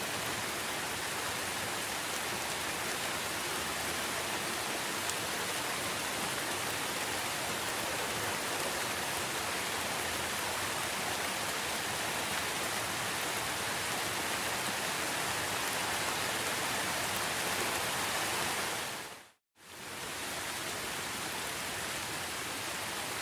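Steady, dense rainfall with an even hiss. Near the end it fades out to silence for a moment and comes back.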